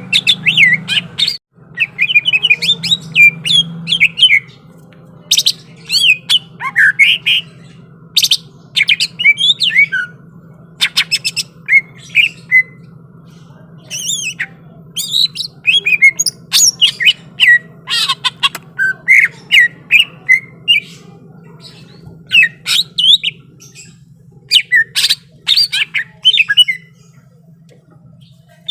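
A cucak ijo (leafbird) singing a loud, fast song of sharp chirps, whistles and clipped notes, phrase after phrase with brief pauses, over a steady low hum.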